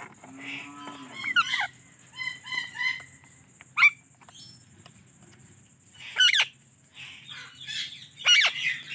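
Indian ringneck parakeet calling: a string of short, shrill squawks and chattering chirps with pitch sweeps, separated by brief pauses, the sharpest calls about four seconds in and again near six seconds.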